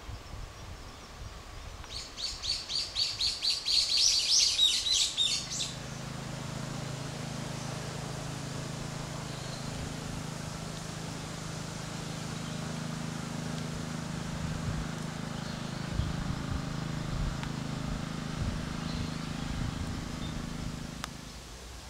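A bird calling a rapid run of about fifteen sharp high notes that grow louder over roughly three and a half seconds. Then a steady low mechanical hum sets in and runs until it cuts off just before the end.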